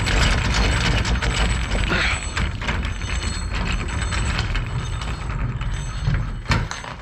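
A jet ski trailer being rolled, giving a steady mechanical rattling and clicking over a low rumble.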